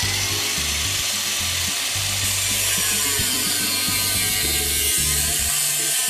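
Angle grinder cutting through a steel flue pipe to shorten it: a steady, harsh, high-pitched grinding.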